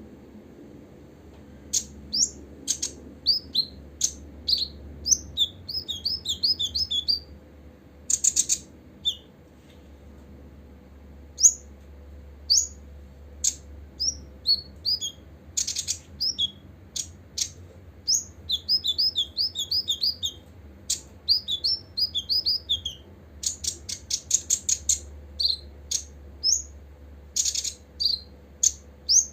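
Copper-throated sunbird calling: sharp, high chirps mixed with quick runs of short falling notes, repeated many times.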